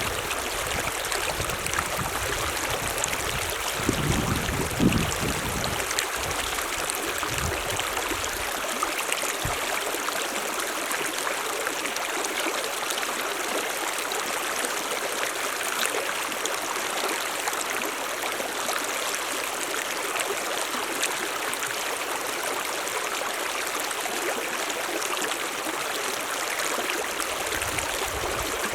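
Mountain stream running steadily, an even rushing hiss of water. Low rumbles come and go during the first ten seconds or so and again near the end.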